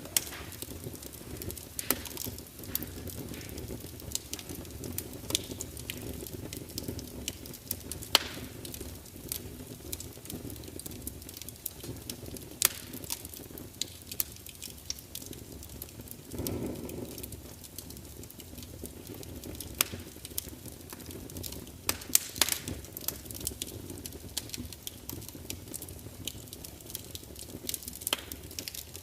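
Log fire in a large fireplace crackling and popping at irregular intervals over the steady low rumble of the flames, with a brief swell in the rumble about halfway through.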